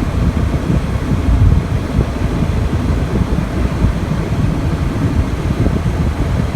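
Loud wind rumble buffeting the microphone, a rough, fluttering low roar with no steady tone in it.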